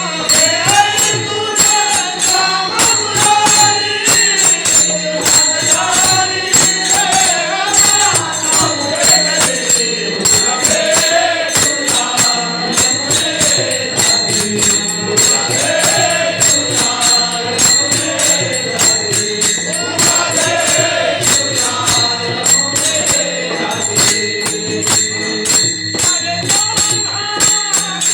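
A woman singing a Marathi devotional song to Krishna, with a wavering melodic line over steady, rapid rhythmic percussion strokes and a sustained accompaniment.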